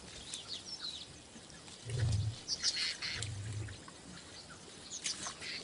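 Wild birds chirping with scattered short calls, and two short low rumbles about two and three and a half seconds in.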